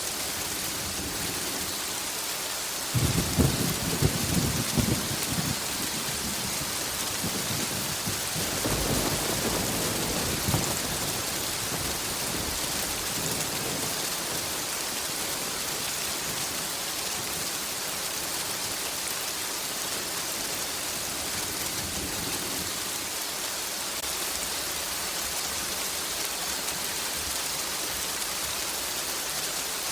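Steady rain hiss, with a sudden sharp crack of thunder rolling for a couple of seconds about three seconds in, and a softer, longer rumble of thunder a few seconds later.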